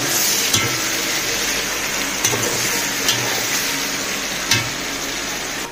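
Onions and chunks of mutton sizzling in hot oil in a large pot, with a metal spatula stirring them and knocking against the pot a few times.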